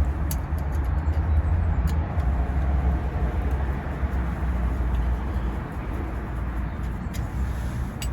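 Car being driven: a steady low rumble of engine and road noise, with a few faint clicks.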